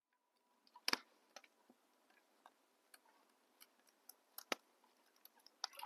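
Small, newly lit wood fire crackling: faint, irregular sharp pops and ticks from the burning kindling, the loudest about a second in and again near the middle.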